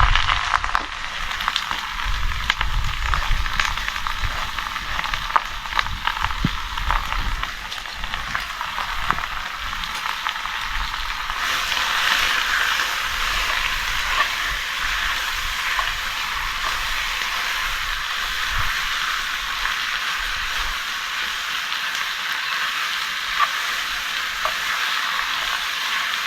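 Lamb and onion sizzling hard in a cast-iron camp oven preheated too hot, a continuous crackling hiss with scattered clicks.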